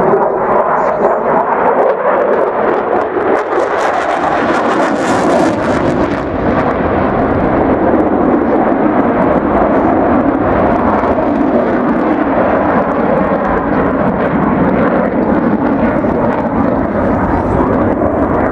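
Eurofighter Typhoon jet fighter's twin jet engines, heard loud and steady as it flies a display, with a brief hiss of higher sound about four to six seconds in.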